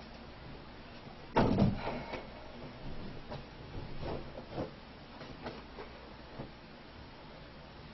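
A loud clunk about one and a half seconds in, followed by a series of lighter knocks and clicks.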